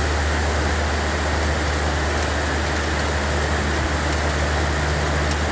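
Steady rain falling, an even hiss with a few faint drop ticks and a constant low rumble underneath.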